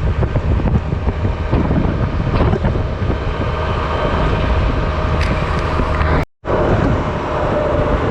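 Wind blowing hard across the microphone while riding a Honda Silver Wing maxi-scooter, with the engine and road noise running steadily underneath. The sound cuts out completely for a moment about six seconds in.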